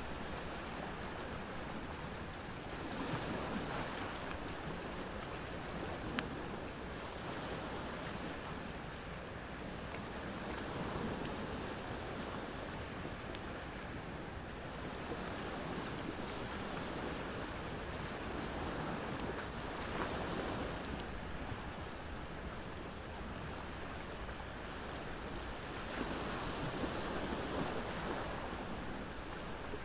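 Ocean waves washing onto the shore in a steady rushing wash that swells louder every several seconds. A wood bonfire gives an occasional faint crackle or pop.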